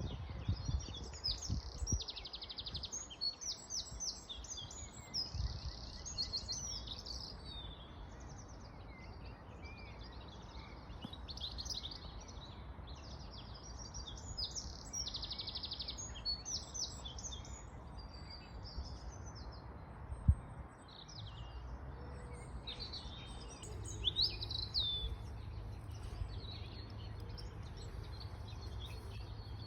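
Several songbirds singing and calling together in a busy chorus of chirps and rapid trills, over a low outdoor rumble. A single sharp knock stands out about two-thirds of the way through.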